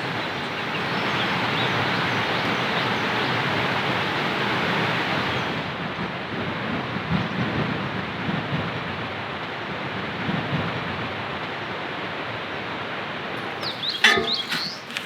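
Heavy rain falling steadily with a low rumble of thunder; the hiss of the rain softens about five seconds in. Near the end, a few sharp knocks.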